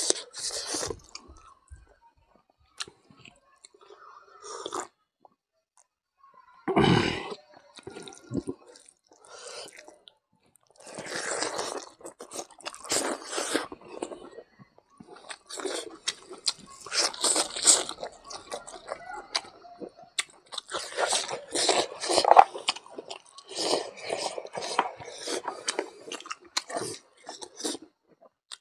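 Close-miked chewing of rice and cooked mithun intestine: wet, smacking mouth sounds and crunching in bursts, broken by short pauses between handfuls.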